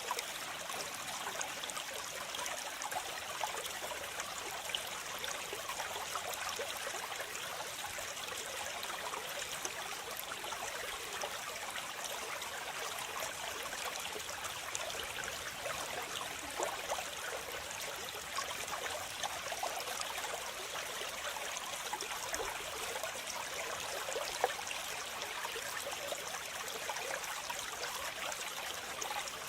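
Waterfall: a steady, unbroken rush of falling and splashing water, mostly hissy and bright, with little deep rumble.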